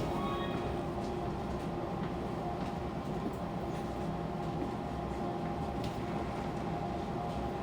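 Fukuoka City Subway 2000 series car standing at a station: a steady low hum of its onboard equipment heard through the car floor, with a few faint steady tones and occasional faint ticks.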